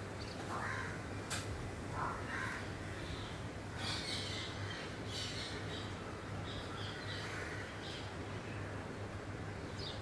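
Birds calling in a tree: a few calls in the first two and a half seconds, then a run of higher chirps from about four to eight seconds in. There is a sharp click just over a second in, and a steady low hum runs underneath.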